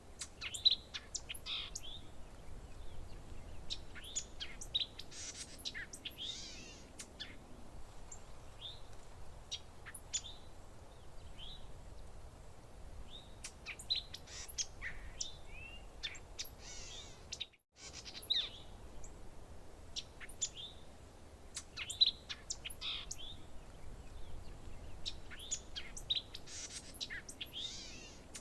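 Songbirds chirping and calling, many short, sharp chirps and whistles overlapping throughout, over a faint low background rush. About two-thirds of the way through, the sound cuts out completely for a split second before resuming.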